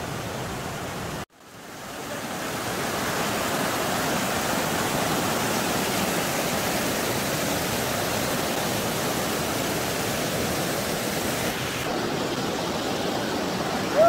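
Mountain stream rushing and cascading over rocks, a steady roar of white water. About a second in the sound cuts out abruptly and fades back in.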